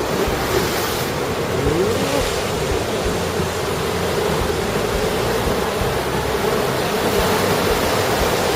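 Heavy typhoon surf pounding the rocky shore in a continuous loud wash, with strong wind and a wavering wind howl.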